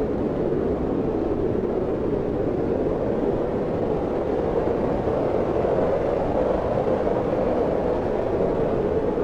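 Wind blowing steadily, an even rushing noise centred low in pitch, with no gusts, breaks or other sounds.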